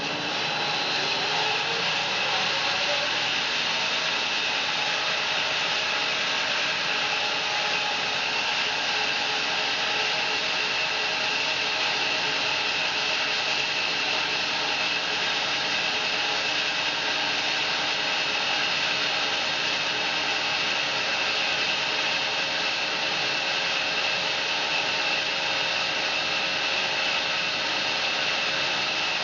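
Home-built bandsaw mill running and cutting through a fir log, a steady mechanical whine and blade noise. It comes up to speed and rises in pitch over the first couple of seconds, then holds steady.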